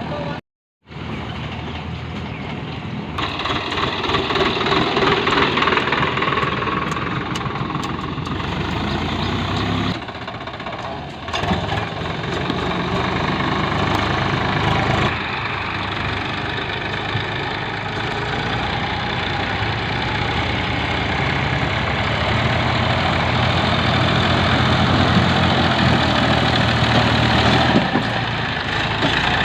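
Diesel engines of a backhoe loader and tractors running and working, with the machines' clatter steady and loud. The sound changes abruptly several times, with a brief dropout just after the start, as shots are cut together.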